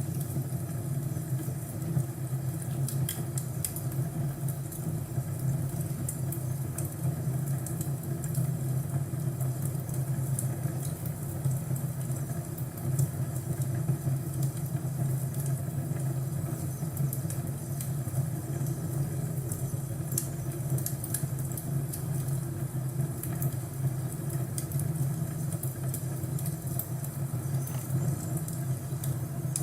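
Crackling fireplace: a steady low rumble of the fire with scattered sharp pops and crackles throughout.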